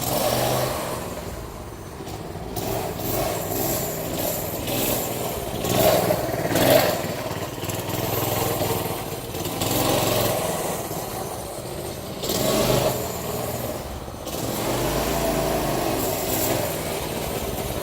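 Mini bike's small engine running on propane gas instead of gasoline, revving up and down in repeated swells.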